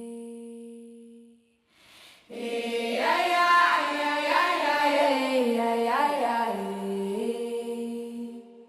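Wordless singing in a song's intro: a held note fades out, then after a short pause a voice comes back with a gliding, ornamented melody of long held notes, choir-like.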